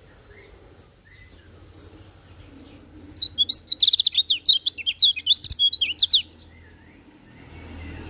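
Kecial kuning, a small white-eye, singing: a few faint high calls, then about three seconds in a loud rapid run of high chirping notes that lasts about three seconds and stops abruptly.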